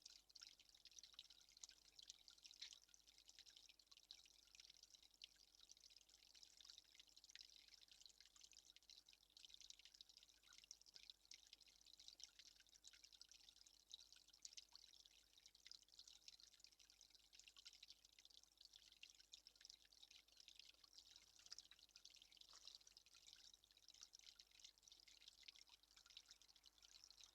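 Faint, steady trickle of water with a dense patter of fine drips.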